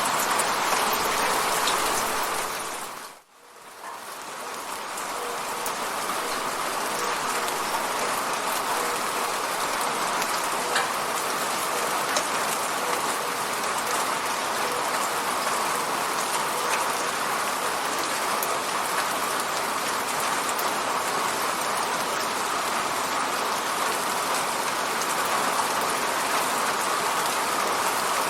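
Steady rain falling on an apartment window, a dense even hiss of drops. About three seconds in it briefly dips almost to silence and then swells back up over a couple of seconds.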